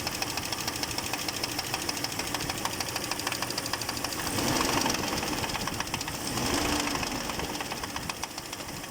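Audi A6 C5 2.8 V6 engine running with a fast, regular knock from the bottom end, which the owner suspects is a piston pin in the connecting rod or a piston fault rather than a rod bearing. The engine gets louder twice, about halfway through.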